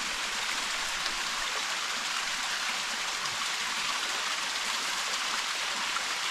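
Small waterfall and creek running, a steady rush of falling and splashing water.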